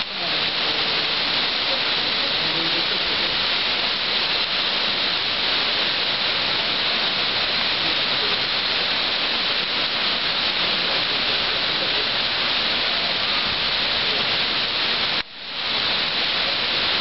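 Heavy thunderstorm rain pouring onto asphalt and parked cars, a steady hiss. It cuts out briefly about fifteen seconds in and comes straight back.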